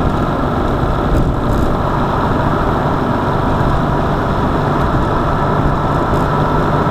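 Car driving: steady engine hum and road noise, unchanging.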